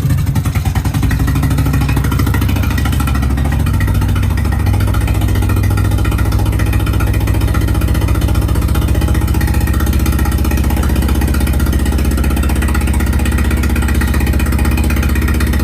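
The 1987 Nissan 200SX S12's engine idling steadily after the revs fall away at the start. The idle note shifts slightly about four to five seconds in and then holds. The engine is running on test mass-airflow-sensor latency settings in its ECU.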